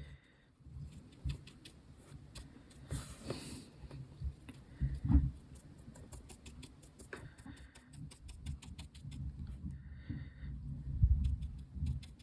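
Small handling noises at a work table: light clicks, taps and scratching, with a few louder knocks about 5 s and 11 s in, and a short scrape about 3 s in.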